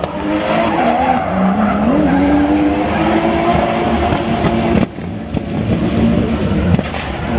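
A drift car's engine running at high revs with tyres squealing. The engine note climbs about a second and a half in, then holds. Near five seconds in the sound breaks off abruptly and gives way to more engine and tyre noise.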